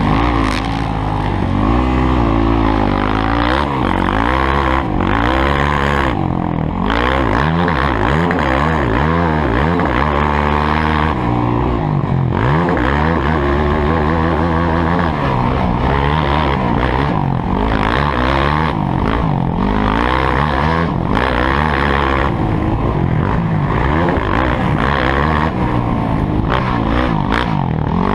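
Motocross dirt bike engines revving hard, their pitch rising and falling over and over with the throttle.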